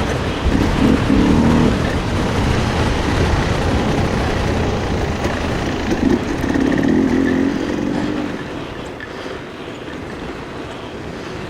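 Riding noise from a mountain e-bike: steady rushing of wind and tyres on the trail, with a pitched whine that rises and falls at the start and again about two-thirds of the way through. The noise eases slightly near the end.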